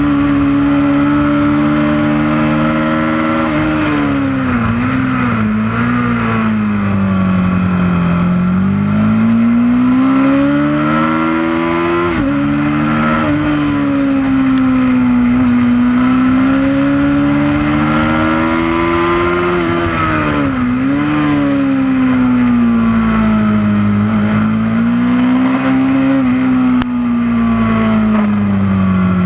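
Honda CB500 parallel-twin engine being ridden hard on a track, its revs climbing and dropping repeatedly as it accelerates, changes gear and brakes, falling away near the end. The rush of wind and tyres is strong, with the camera on the front mudguard.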